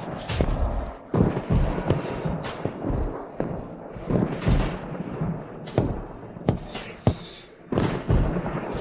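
Dramatic film soundtrack music with a string of heavy thuds and sharp hits, about one every second or so, over a low rumble.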